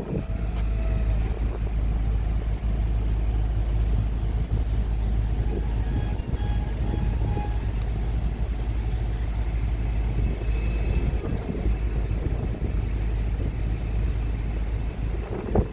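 Steady low rumble of heavy diesel machinery running.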